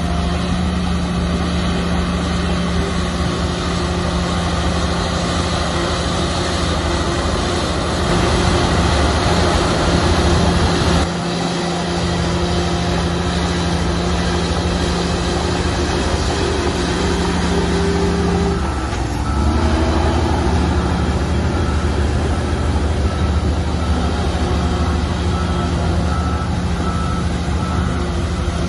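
Heavy diesel engine of an earthmoving machine running steadily under load. It grows a little louder about a third of the way in, then dips and picks up again about two-thirds through. In the last third a faint high beeping repeats evenly, typical of a reversing alarm.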